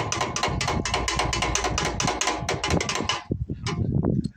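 Ratchet wrench clicking rapidly as it works the float-bowl nut off a Tecumseh carburetor, about eight or nine clicks a second, stopping about three seconds in.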